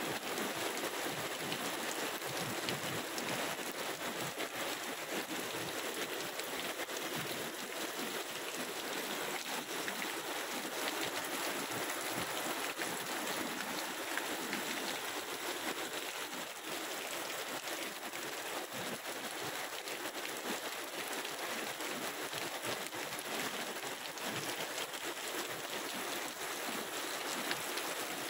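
Heavy rain falling in a steady, dense hiss, with countless drops pattering on hard surfaces close by.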